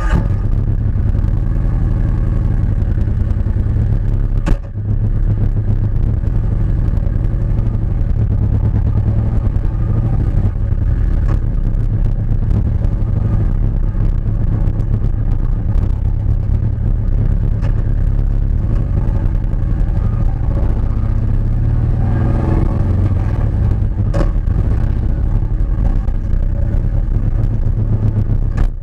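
Kawasaki Vaquero's 1700 cc V-twin running through a DanMoto Highwayman 2-into-1 full exhaust: a steady, loud, deep rumble, broken by a brief dip about four and a half seconds in.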